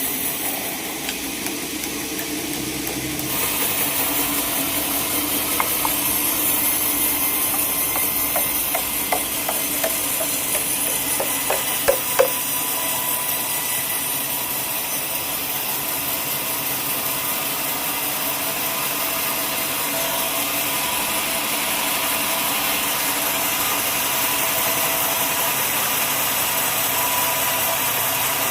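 Sawmill machinery running steadily, with a few light knocks about twelve seconds in.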